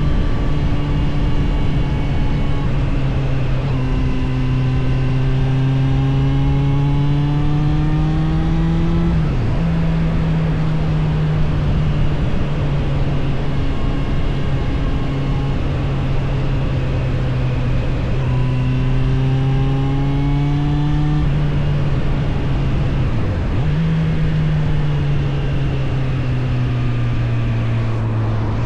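Suzuki GSF 600 Bandit's inline-four engine running under way, its pitch slowly rising and falling with the throttle, over a steady rush of wind and road noise. There are two quick dips in engine pitch, one about a third of the way in and one near the end.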